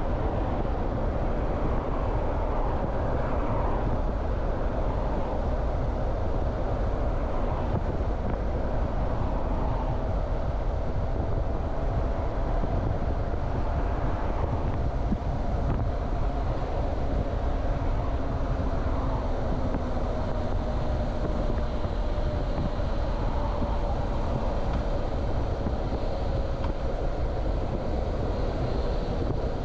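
Motorcycle riding at a steady pace: engine running with heavy low rumble and wind noise, and a faint steady whine that sags slightly in pitch near the end.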